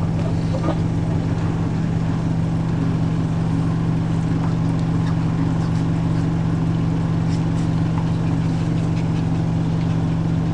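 Front-loading washing machine on a spin with its drain pump running: a steady, even hum in which the pump is louder than the motor.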